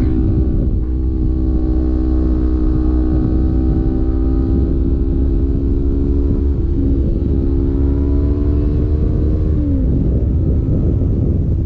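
Sport motorcycle engine pulling in gear, its pitch rising slowly as the bike accelerates, then dropping sharply with an upshift near the end. Heavy wind rumble on the microphone runs underneath.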